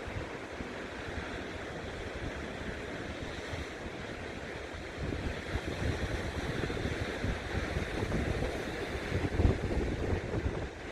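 Ocean surf washing steadily while wind gusts across the microphone. The low buffeting grows stronger about halfway through, with one sharp gust near the end.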